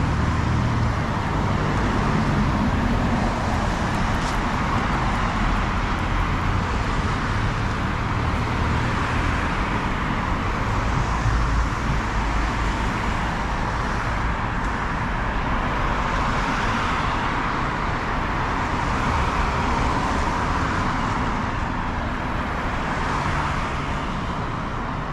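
Steady road traffic on a city street: cars passing, their tyre and engine noise swelling and fading as each goes by over a continuous low rumble.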